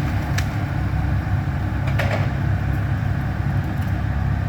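Excavator's diesel engine running steadily, with two sharp cracks of the house being broken, one just after the start and one about two seconds in.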